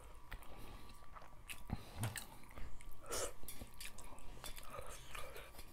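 Close-miked chewing and wet mouth clicks of two people eating a fish soup meal with their hands, with a slightly louder mouth sound about three seconds in.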